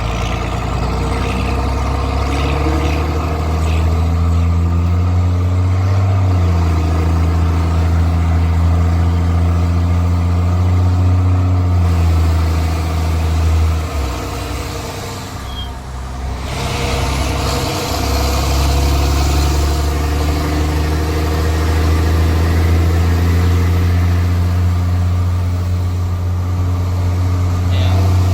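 Straight-piped Cummins C8.3 diesel in a school bus pulling under load, its throaty open exhaust loud and steady. There is a gear change about six seconds in, the engine backs off around fourteen seconds, then comes back on the throttle about eighteen seconds in, the exhaust echoing off a wall alongside.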